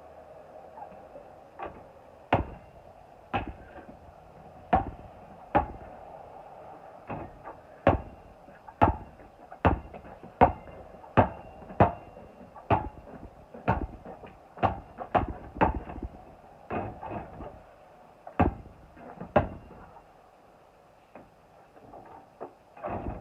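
A basketball thudding again and again, short sharp bounces about once a second at an uneven pace, some coming in quick pairs.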